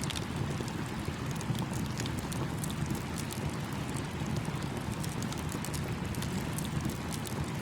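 Campfire crackling with many small, irregular pops over the steady rushing of a small stream.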